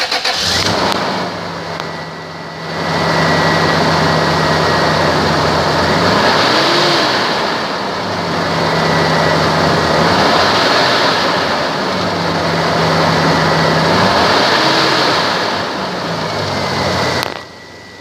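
2002 Toyota 4Runner's 3.4-litre V6 running just after starting, its engine speed rising briefly and falling back twice. It gets quieter near the end.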